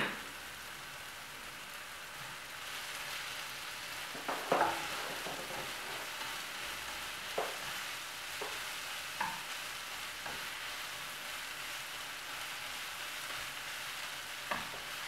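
Onion, curry leaves and pandan leaf sizzling in hot oil in a nonstick frying pan, with a steady hiss. A plastic spatula scrapes and taps the pan every second or two as the mixture is stirred, loudest about four seconds in.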